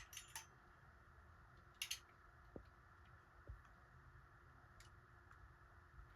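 Faint clicks and light taps of small parts and hand tools being handled during wiring work, with a sharper double click about two seconds in, over a low steady room hum.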